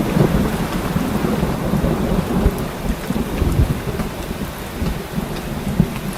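Steady heavy rain with a rolling rumble of thunder that swells near the start and eases off toward the end.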